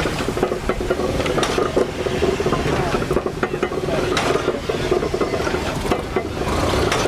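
Steam traction engine running, a rapid irregular clatter of moving parts over a steady hiss and hum.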